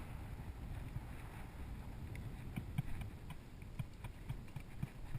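Horse's hooves clopping irregularly on rocky ground, starting about two seconds in, over a low rumble of wind on the microphone.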